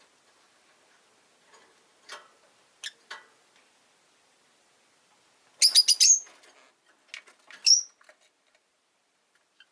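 Rosy-faced lovebirds chirping: a few faint calls, then a quick run of four loud, sharp chirps about six seconds in, and another loud chirp a second and a half later.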